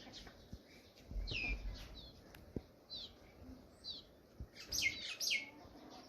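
Birds chirping: short chirps that fall in pitch, spaced out at first, then several in quick succession near the end. A brief low rumble sounds just after a second in.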